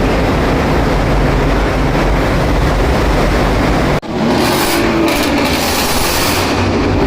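Car engine running loudly and being revved. About four seconds in the sound cuts abruptly to a different take with a brief rise and fall in pitch.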